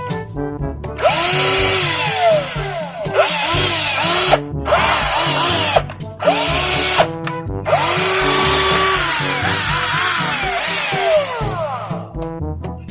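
Black & Decker cordless drill run in several bursts on its rebuilt lithium battery pack, its motor whine rising and falling in pitch as the trigger is squeezed and eased, with short pauses between runs. Background music plays underneath.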